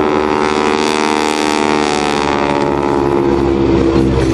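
Boeing Stearman biplane's 450-horsepower Pratt & Whitney radial engine running at display power during aerobatics, a steady, loud engine drone with a rush of air noise that swells about a second in and fades after two seconds.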